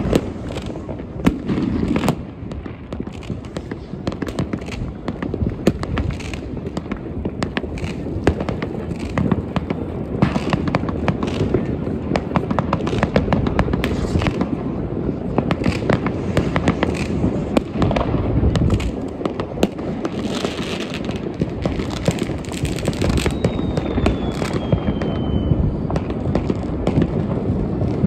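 Dense New Year's Eve fireworks: rockets, firework batteries and firecrackers going off without a break, many overlapping bangs and crackles. A whistling firework gives one falling whistle about three quarters of the way through.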